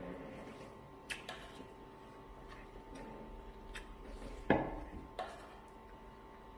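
A few scattered clinks and knocks of cutlery against dishes, the loudest about four and a half seconds in, over a steady faint hum.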